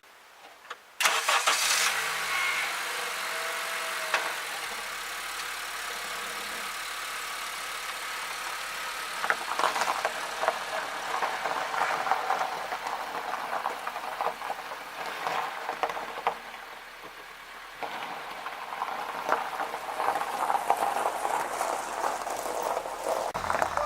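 A car engine starts about a second in and then runs at idle.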